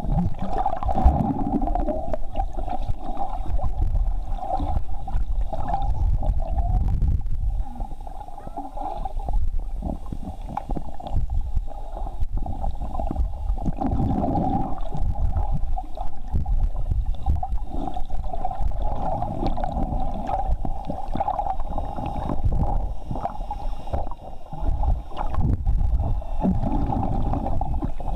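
Small boat's motor droning steadily, heard muffled under water, with water gurgling and surging around the camera.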